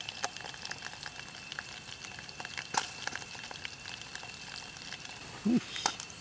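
Eel pieces frying in hot oil: a steady sizzle scattered with small pops and crackles, with a sharper pop about three seconds in and another near the end as the eel spits in the oil.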